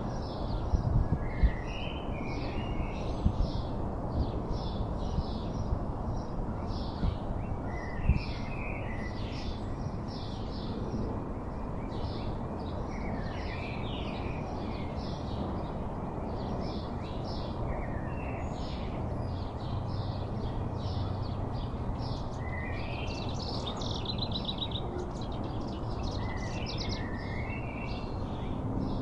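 Wild songbirds chirping and calling in many short, repeated notes, with a quick buzzy trill near the end, over a steady low outdoor rumble. A few soft thumps come in the first several seconds.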